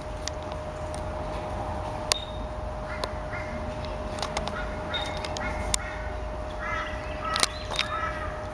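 Passenger train running, heard from inside the carriage: a steady low rumble with a constant hum and scattered clicks. Groups of short repeated calls come through about three seconds in and again near the end.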